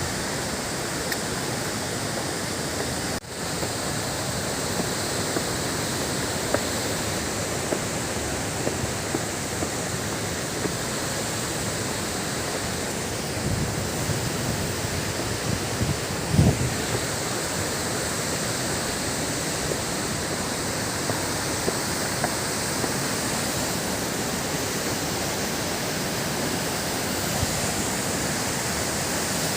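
Waterfall: a steady, loud rush of falling water, with a few low thumps of wind on the microphone now and then.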